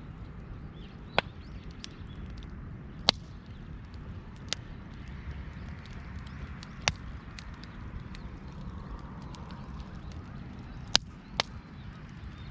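Campfire crackling: sharp single pops at irregular gaps of one to four seconds, two close together near the end, over a low steady rumble.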